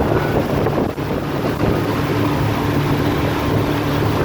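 A 30 ft pontoon boat's motor running steadily under way, with wind buffeting the microphone.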